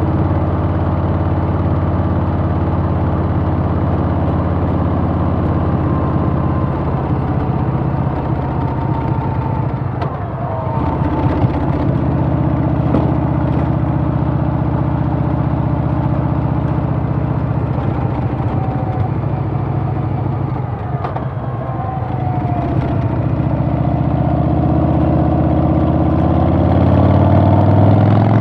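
Harley-Davidson Softail's Milwaukee-Eight V-twin engine running steadily while riding, easing off briefly twice and rising in pitch as it accelerates near the end.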